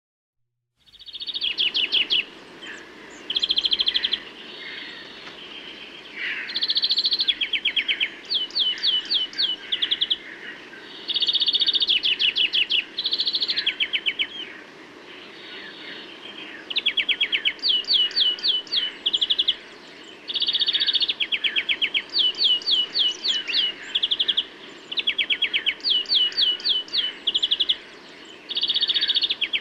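Birds chirping in repeated quick runs of short, descending chirps, each run about a second long, over a steady low background noise.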